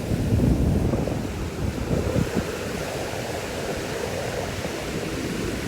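Ocean surf washing onto the beach, with wind buffeting the microphone in low gusts.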